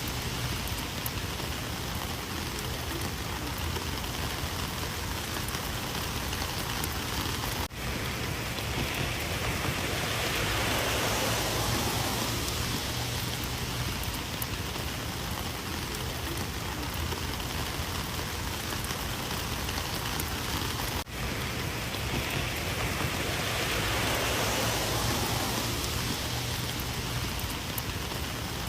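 Rain falling steadily, with the patter of drops on surfaces. It swells louder twice and has two momentary drops in level.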